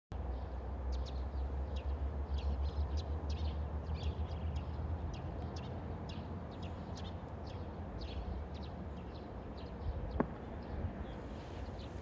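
Small birds chirping in short, repeated high calls, over a low rumble of wind on the microphone that eases after about five seconds; a single sharp click about ten seconds in.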